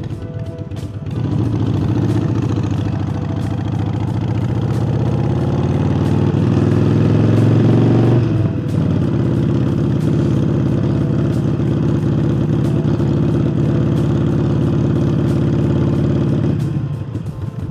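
Harley-Davidson Forty-Eight's air-cooled V-twin, fitted with a new air intake, accelerating: the engine note rises for several seconds, drops sharply at an upshift about eight seconds in, then holds steady before easing off near the end.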